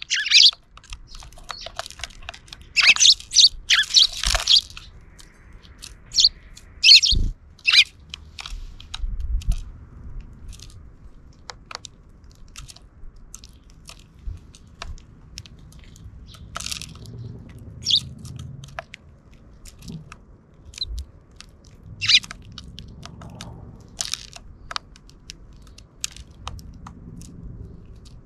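Sparrows chirping, with a cluster of loud chirps in the first few seconds and scattered ones after, over many quick pecking clicks and crunches close to the microphone.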